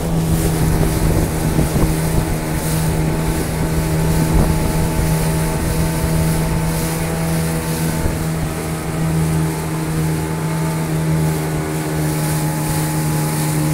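Jet boat engine running steadily at a constant pitch while towing a rider, with wind buffeting the microphone.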